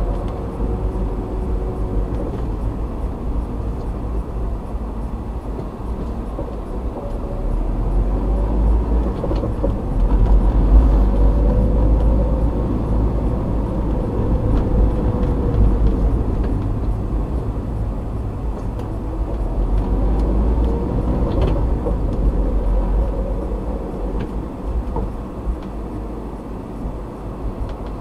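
A car driving on the road, heard from inside by a dashcam: a steady low rumble of tyres and engine, with a faint engine hum that slowly rises and falls in pitch as the speed changes.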